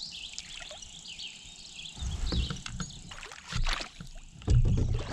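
Kayak moving about on the water, with a few knocks and bumps on the hull about two, three and a half, and four and a half seconds in. Birds are chirping in the background.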